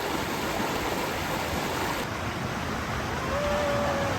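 Rushing creek water, a steady hiss of flowing water. Near the end a brief held high note sounds over it.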